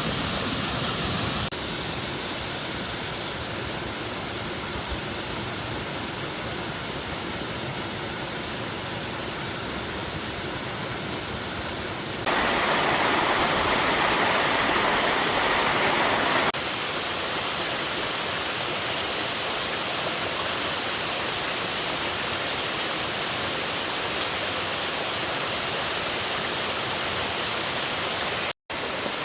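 Steady rushing water, an even hiss that changes abruptly in loudness and tone a few times, getting louder for a few seconds in the middle.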